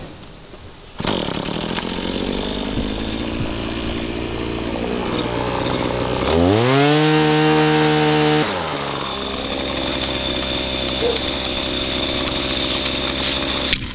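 Husqvarna two-stroke chainsaw running at idle, revved quickly to full throttle about six seconds in, held there for about two seconds, then let back down to idle. The engine sound comes in suddenly about a second in.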